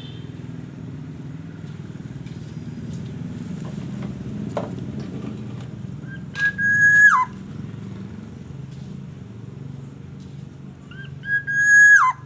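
Black-naped oriole giving two nasal calls a few seconds apart, each a short lead-in note followed by a long level note that drops sharply at the end. A steady low rumble runs underneath.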